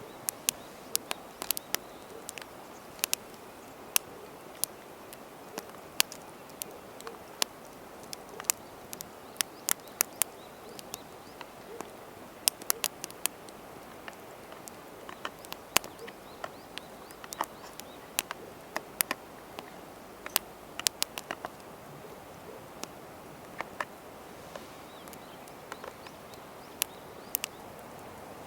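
Wood campfire crackling, with frequent sharp, irregular pops over a steady hiss.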